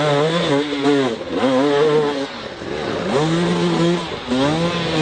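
Motocross bike engines revving, the pitch climbing, holding and dropping again about once a second.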